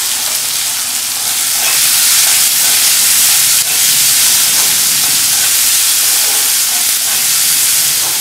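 Tomatoes and green chillies sizzling loudly as they fry in hot mustard oil in a metal kadai, stirred with a wooden spatula; the sizzle grows a little louder about a second and a half in.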